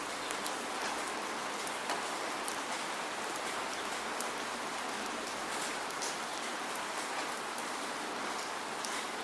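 Steady rain falling, with no thunder: an even hiss, with scattered sharp drop ticks.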